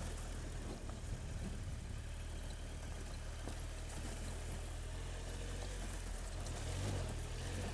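Triumph Tiger 1200's three-cylinder engine running steadily at low revs, with a slight swell in engine note about seven seconds in.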